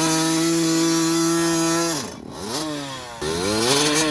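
A mini bike's small engine is held at steady high revs for about two seconds. It then drops off sharply and revs back up to hold high again.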